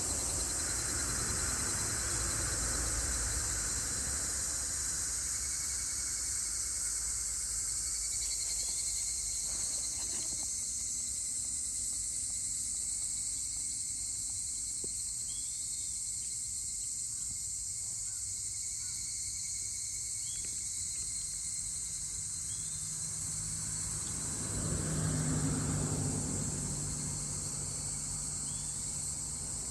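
Steady, high-pitched chorus of summer insects, with a few faint chirps over it. A low hum swells briefly about 25 seconds in.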